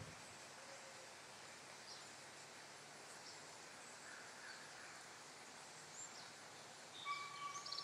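Faint outdoor ambience with scattered brief bird chirps. Near the end, louder bird calls come in: a short held note and a fast trill.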